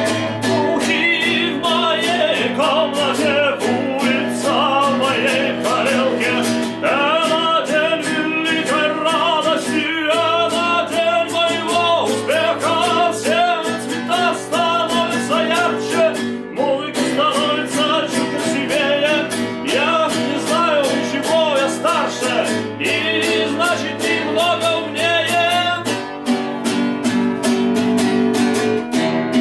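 Acoustic guitar strummed steadily, with a wavering sung melody in phrases over it.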